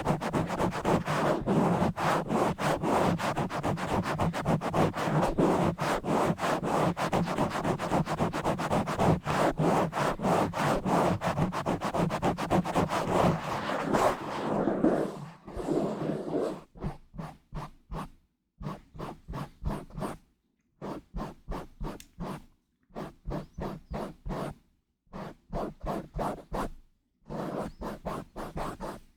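Scratching and rubbing directly on a bare microphone with no cover. About the first half is a fast, unbroken run of scratches; from about halfway on it breaks into short bursts of scratches with brief silences between them.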